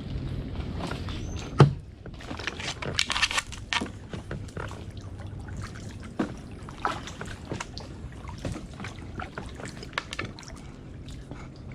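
Kayak paddle strokes in shallow water: blades dipping and splashing, with scattered sharp knocks of the paddle, the loudest about one and a half seconds in.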